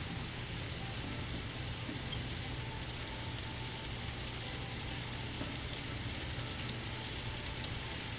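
N scale model diesel locomotives running on the layout: a steady low engine-like hum with an even hiss and a faint intermittent higher tone.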